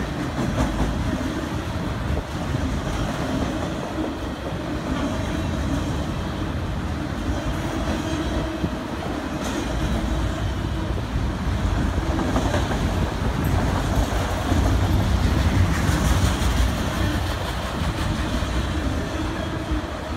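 Freight train of multilevel auto rack cars rolling past close by: a steady rumble of wheels on the rails with clickety-clack over the joints, growing a little louder about three-quarters of the way through.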